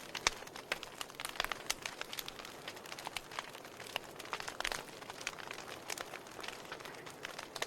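Wood fire crackling in a fireplace: burning logs give off irregular sharp pops and snaps over a soft steady hiss.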